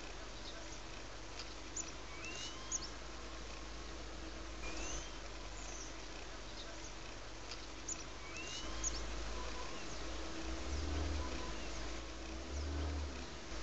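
A bird repeating a short rising call every two to three seconds over a steady low hum, with a low rumble that swells twice in the second half.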